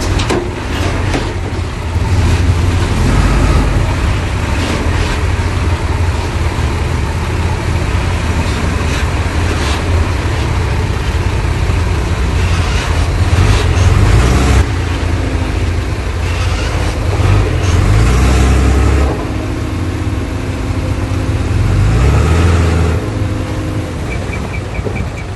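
Heavy diesel earthmoving machinery at work, a bulldozer and dump trucks: deep engine rumble that swells and eases with load, with scattered metallic clanks and rattles.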